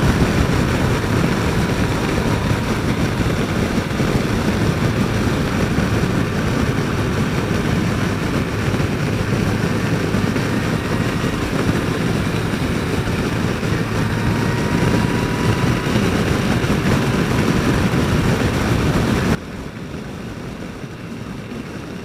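Yamaha FJR1300 motorcycle under way at road speed: a steady mix of wind rush and engine drone. The sound drops suddenly to a much quieter level near the end.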